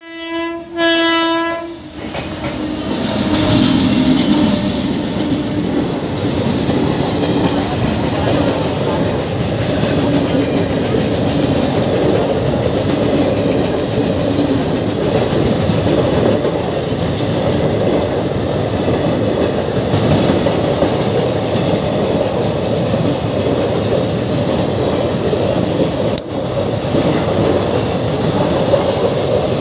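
Train horn sounding two short blasts, then a long passenger train rolling past with a steady rumble of wheels on the track.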